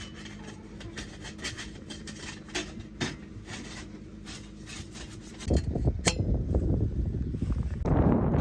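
Scattered light clinks and taps, as of small hard objects being handled. About five and a half seconds in, a loud low rumble of wind buffeting the microphone begins, and it grows stronger near the end.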